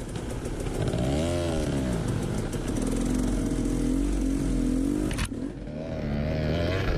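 Dirt bike engine revving up and down as it rides over rough ground, with rattling and a sharp knock about five seconds in.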